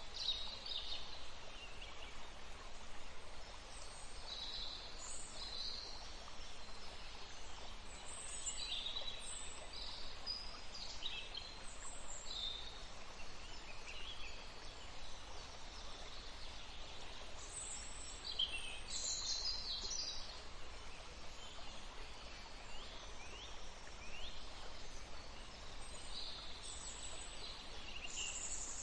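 Several small songbirds singing and chirping, with short high phrases coming every second or two over a steady background hiss.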